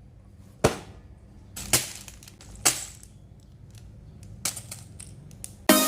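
Small plastic building bricks clicking and knocking, five sharp clicks about a second apart, the first the loudest, over a low hum. Electronic dance music starts near the end.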